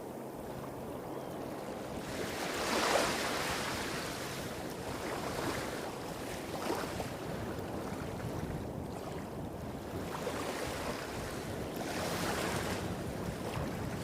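Small sea waves breaking and washing up a beach in several separate swells, the biggest about three seconds in, over a steady low rumble of surf hitting rocks a few hundred metres off.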